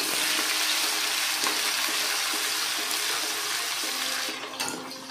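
Hot oil sizzling hard in a steel wok as pounded shallot, garlic and ginger fry in it, stirred with a metal ladle. The sizzle eases off about four seconds in.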